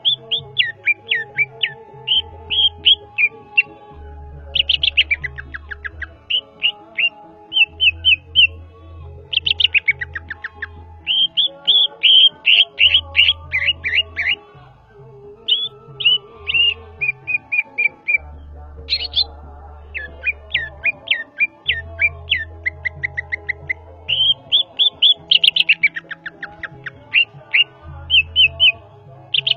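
Greater green leafbird (cucak ijo) singing continuously in loud, fast phrases of sharp downslurred whistles and rattling trills, separated by short pauses. Background music with a pulsing bass line runs underneath.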